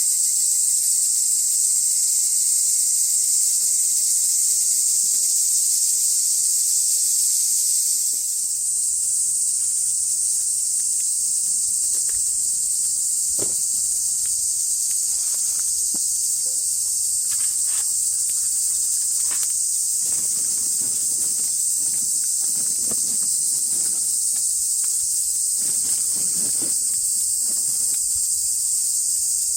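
A dense, steady, high-pitched chorus of summer insects, easing slightly about eight seconds in. Scattered faint knocks and rustles come through in the second half.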